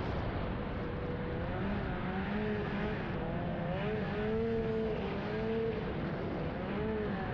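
Snowmobile engine running under way, its pitch rising and falling with the throttle, over a steady low rumble.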